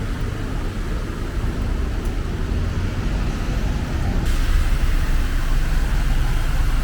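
City street traffic on a flooded avenue: a steady rumble of passing vehicles, with a rushing hiss that grows louder about four seconds in.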